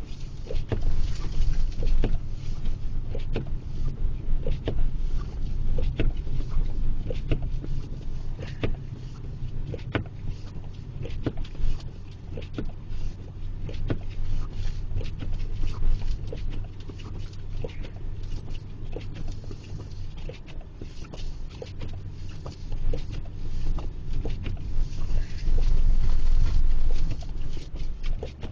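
Blizzard wind buffeting the microphone: a heavy low rumble that rises and falls in gusts, strongest in a long gust near the end, with many sharp ticks scattered through it and a faint steady hum underneath.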